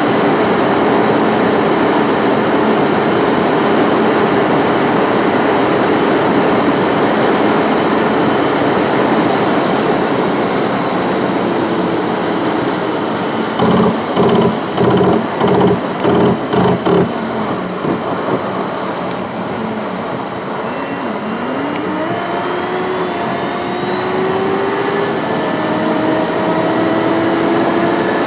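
A car on the move: steady engine and road noise. About halfway through comes a run of about eight short, evenly spaced pulses. After that the engine note rises several times in steps, as the car accelerates up through its gears.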